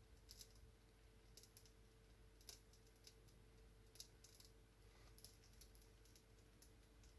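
Wood fire in a fireplace crackling faintly as the kindling chips catch: irregular sharp snaps and pops, a dozen or so, with a fire that is only starting to burn.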